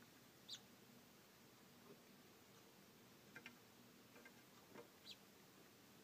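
Near silence with a low steady hum, broken by a few faint, brief high chirps and clicks about half a second in, around three and a half seconds and again near five seconds.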